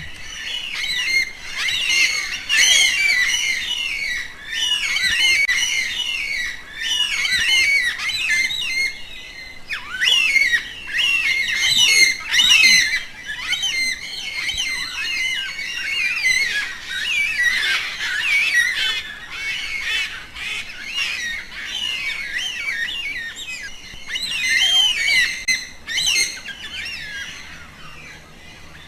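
A flock of birds calling: many overlapping short chirps and squawks, dense and unbroken, swelling and ebbing in loudness.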